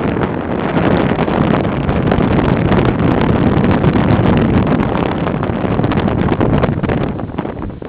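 Strong wind buffeting the microphone: loud, gusty rumbling noise that eases briefly near the end.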